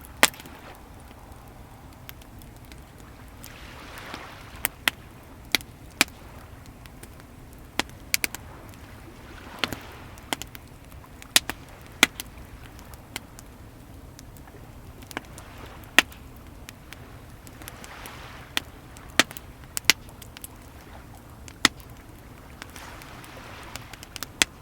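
Wood fire crackling, with sharp pops at irregular intervals, over the steady low rush of sea waves. Soft washes of surf swell and fade every several seconds.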